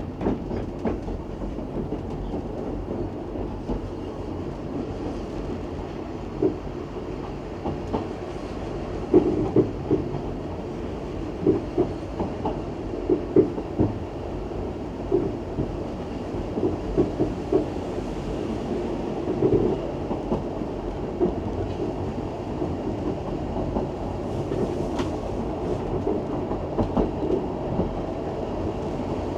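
Isle of Man Steam Railway train running along the track: a steady rumble with irregular clicks and knocks of the wheels over rail joints.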